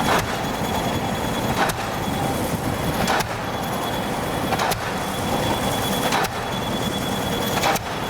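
Pile hammer on an excavator-mounted pile-driving rig striking a pile at an even beat, about one blow every second and a half, six blows in all, over the steady running of the machine's engine.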